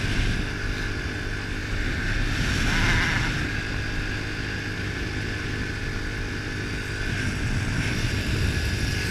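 A 110cc pit bike's four-stroke engine running steadily while riding, with wind on the microphone. A squeaking comes through, which the rider puts down to a dry, unlubed drive chain.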